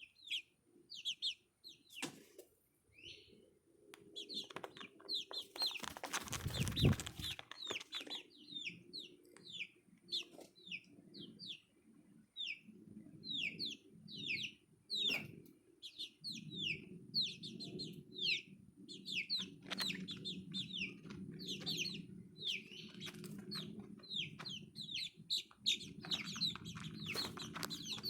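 Young chickens peeping over and over, each peep a short high call sliding downward, with a brief burst of rustling about seven seconds in.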